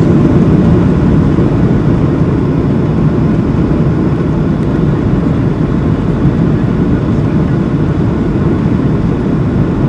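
Steady low rumble of engine and airflow noise inside the cabin of a Boeing 737-700 airliner in flight, from its CFM56-7B turbofans and the air rushing past the fuselage.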